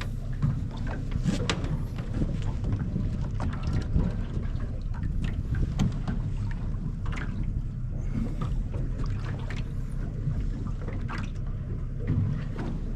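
Fishing boat's engine running with a steady low drone, with scattered clicks and knocks from handling on deck.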